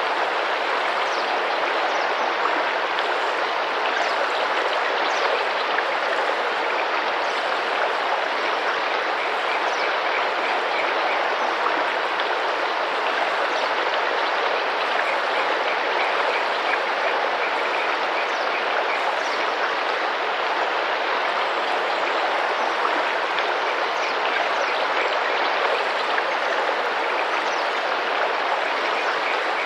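Tropical rainforest river water running and splashing steadily, with faint short high bird calls every few seconds.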